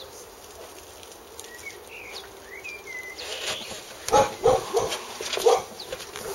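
Birds chirping a few short, curving notes, then a handful of short, loud sounds about four to five and a half seconds in.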